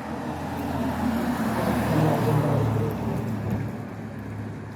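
A car driving past on the road, growing louder to its closest point about two seconds in and then fading away.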